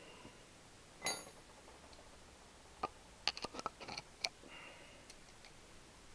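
Small metal parts and tools clicking and clinking during hand work on a motorcycle engine. There is one ringing clink about a second in, then a quick run of clicks around three to four seconds in.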